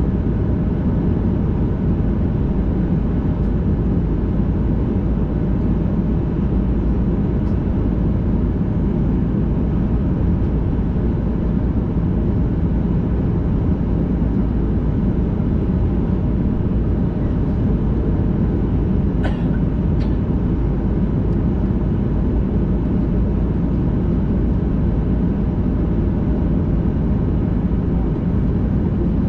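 Steady low rumble inside the cabin of a Boeing 737-800 taxiing after landing: its CFM56 engines idling, with air-conditioning hiss and wheel rumble. A brief sharp click cuts through about two-thirds of the way in.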